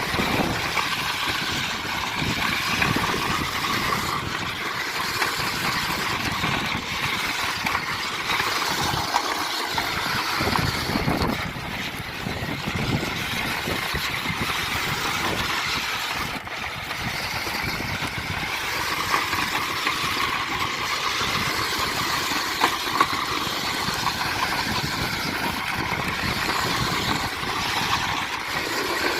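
Radio-controlled monster trucks running, a steady motor sound that wavers in pitch.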